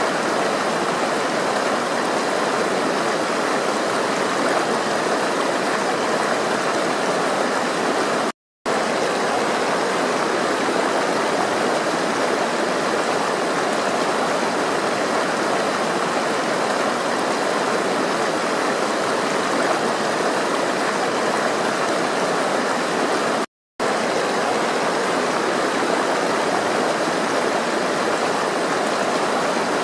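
Steady rushing of flowing water, like a stream, cut by two brief dropouts to silence, one about a third of the way in and one about three quarters of the way through.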